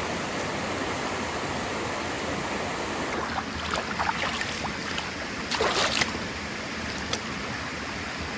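Steady rushing of a rainforest river, with a few short clicks and knocks about halfway through.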